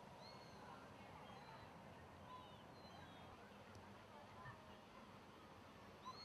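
Faint waterfowl calls, with short high bird chirps now and then over a low hiss.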